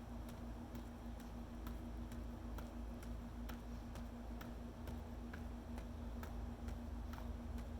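Footsteps at a walking pace, about two sharp ticks a second, over a steady low hum and rumble.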